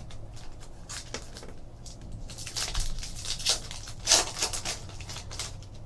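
Baseball trading cards being handled: a run of short rustling and sliding sounds as cards are flipped and moved, busier and louder in the second half.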